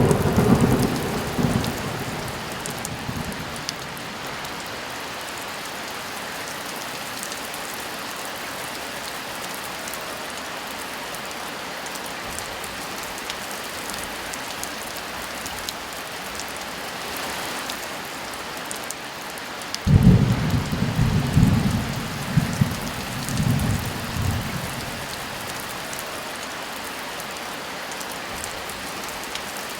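Steady heavy rain with thunder: a clap right at the start that rumbles away over a few seconds, and another about two-thirds of the way through that rolls in several swells for about five seconds.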